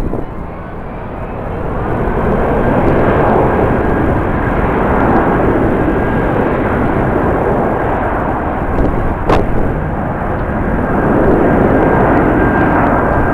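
Jet airliner engines running loud, with a faint steady whine over a dense rush of noise that swells about two seconds in. Strong wind buffets the microphone, and there is one sharp click about nine seconds in.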